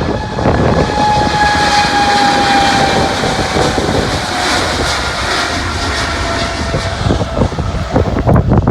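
Jet airliner taking off and passing, its engine noise carrying a whine that falls slowly in pitch. Wind buffets the microphone.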